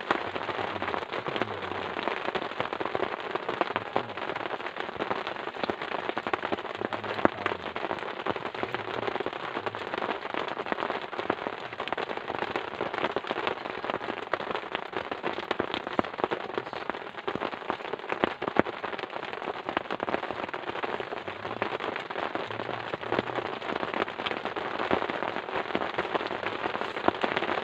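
Heavy rain falling steadily, a dense hiss of countless drops striking a surface.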